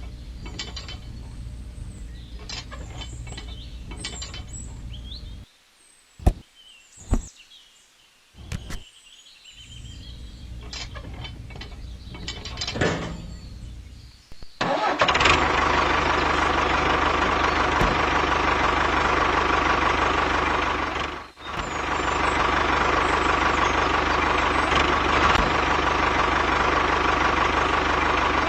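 Clicks and knocks over a low hum, then a small motor starts about halfway through and runs steadily with a constant whine, cutting out for a moment and picking up again.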